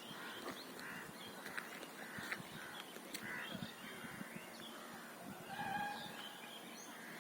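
Faint birds calling: a run of short, rough calls about one a second over the first few seconds, then a longer pitched call near the end.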